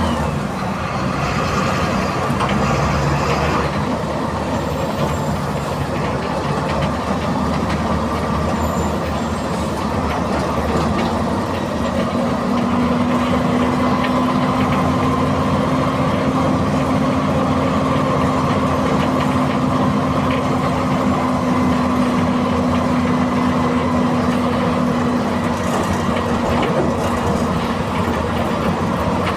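MWM 6.12 TCE 7.2-litre six-cylinder turbocharged, intercooled diesel of a VW 17-230 EOD bus running steadily. A steady whine comes in about twelve seconds in and fades a few seconds before the end.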